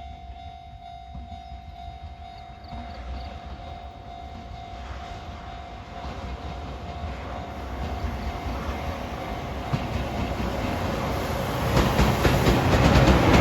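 Freight train approaching on the line, its rumble growing steadily louder. In the last couple of seconds the wheels clatter loudly over the rails.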